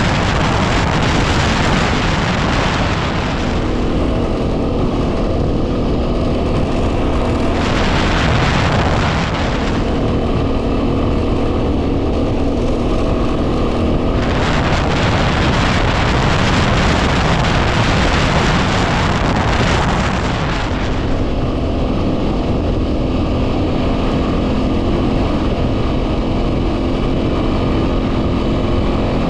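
Yamaha WR250R's single-cylinder four-stroke engine running steadily while riding. Heavy wind noise on the microphone surges several times and at times drowns out the engine.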